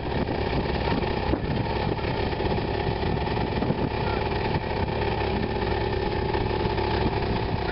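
A car engine running steadily, its exhaust note even with no revving.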